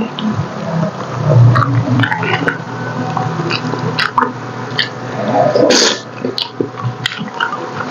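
Close-miked chewing and lip-smacking of sticky braised pork hock, with many short wet clicks, a low hummed 'mm' during the first few seconds, and a louder smack near six seconds in.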